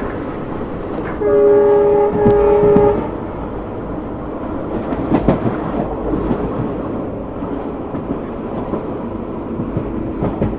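Train running along the track with a steady rumble and wheel noise, heard from a coach behind twin ALCO WDM-3D diesel locomotives. About a second in, the locomotive horn sounds one steady blast of just under two seconds.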